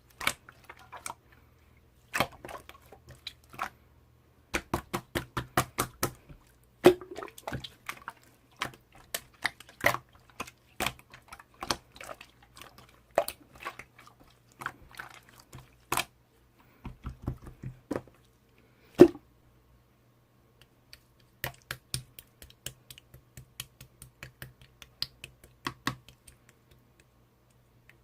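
Slime being squeezed and poked by hand: clusters of sharp, sticky clicks and pops in an irregular stream, with a short pause about two-thirds of the way through.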